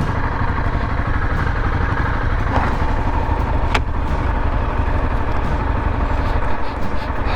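Motorcycle engine running steadily while under way, a constant low throb with a couple of brief clicks near the middle.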